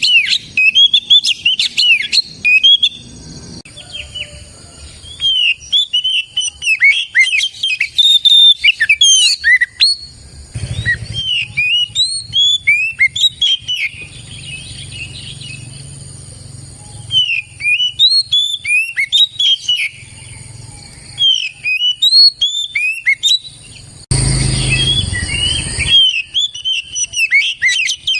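Oriental magpie-robin (kacer) singing: fast runs of sharp chirps and whistled notes in bouts of a few seconds separated by short pauses. A brief noisy rustle or hiss cuts in near the end.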